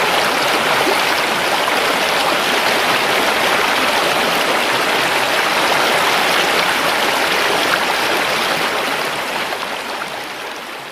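River water flowing, a steady, dense rushing sound; it fades out over the last couple of seconds.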